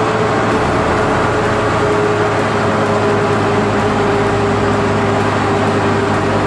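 Honda Integra Type R DC5's K20A four-cylinder engine and road noise heard while the car drives at a steady speed, a constant drone with one steady tone that drifts slightly lower.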